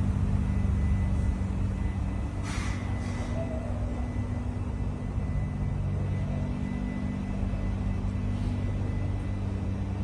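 A car engine idling steadily with an even low hum. A brief hiss cuts in about two and a half seconds in.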